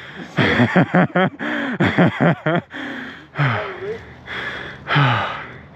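A man breathing hard close to the microphone, with voiced, gasping breaths over the first couple of seconds and then two long, falling exhales.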